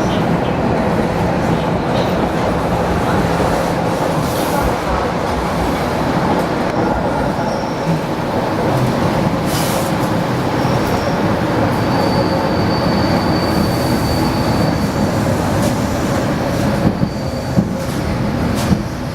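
ED4M electric multiple unit running on the rails with a steady rumble. A faint high wheel squeal rises in about two-thirds of the way through, and a few sharp knocks come near the end.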